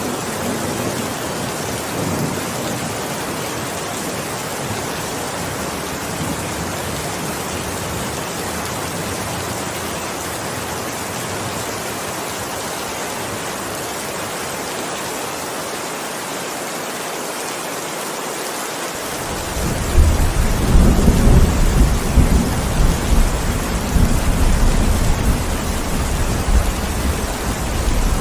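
Heavy rain falling steadily, with thunder. A low rumble fades out at the start, and a loud rolling thunder rumble sets in about two-thirds of the way through and lasts to the end.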